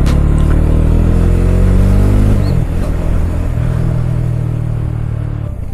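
Motorcycle engine running on the move, its pitch climbing slightly and then dropping about two and a half seconds in before running steady and fading near the end.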